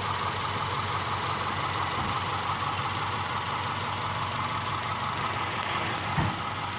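Subaru Liberty car engine idling steadily at an even speed, with a single short low thump about six seconds in.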